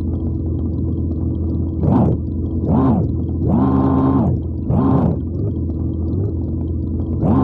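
Electronic engine sound effect from a battery-operated toy vehicle: a steady humming drone with a rising-and-falling revving tone repeated about five times, roughly once a second, from about two seconds in.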